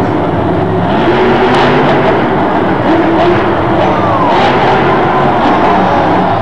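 Monster truck engine running hard and revving, its pitch rising and falling repeatedly.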